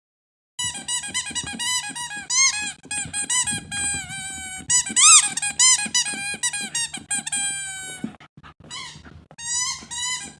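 Squeaky dog toy squeezed over and over: a quick run of short, high squeaks that bend up and down, with one long squeak falling slowly in pitch about halfway through. The squeaks start abruptly after half a second of silence and break off just before the end.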